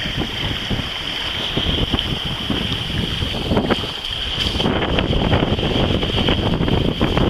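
Wind buffeting the microphone aboard a sailboat under way, over a steady rush of wind and water.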